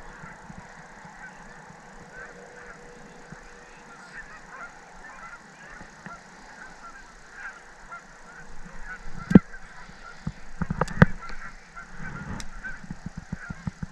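Geese honking in the distance, many short calls scattered throughout, with a few sharp knocks in the second half.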